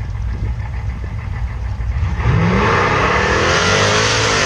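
Two drag-racing cars launching off the start line: engines rumbling at the line, then about two seconds in a loud burst of acceleration with the engine note rising steeply in pitch as they pull away.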